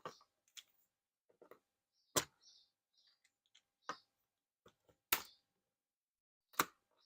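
Hand tools working on a scooter's exhaust fastenings: a handful of separate sharp clicks and knocks, the loudest about two, five and six and a half seconds in.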